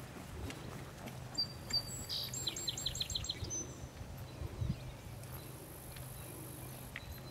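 A songbird sings one short phrase of about six quick repeated high notes, starting about a second and a half in, over a steady low hum. A horse's hooves thud softly on grass as it walks.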